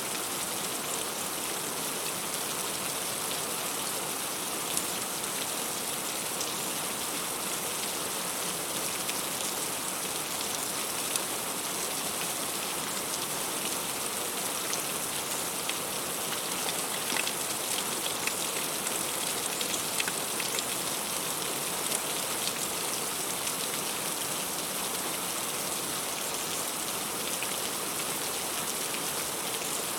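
Heavy rain falling steadily, with individual drops hitting leaves and fruit heard as scattered sharper pats over the constant hiss.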